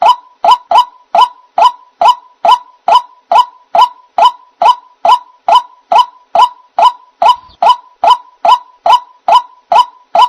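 White-breasted waterhen (ruak-ruak) calling: a steady, evenly paced series of short, sharp croaking notes, a little over two a second.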